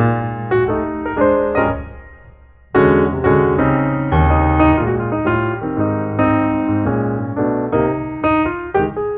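Background piano music: notes struck in a steady rhythm, fading briefly about two seconds in before a fuller phrase begins.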